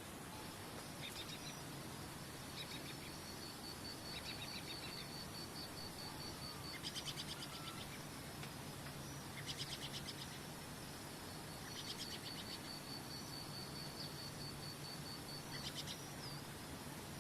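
Birds calling over a steady rush of water: a long, fast, even trill heard twice, and short buzzy chirps in between.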